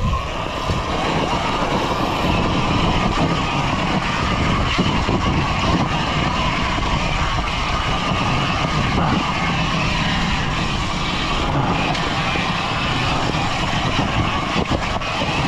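Surron Ultra Bee electric dirt bike riding along: a steady high motor whine under a constant loud rush of noise.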